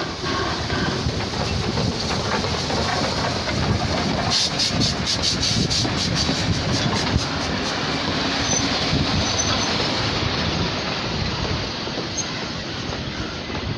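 Train rolling into the station, its wheels rumbling and clattering on the rails, with a quick run of rapid clicks about four seconds in.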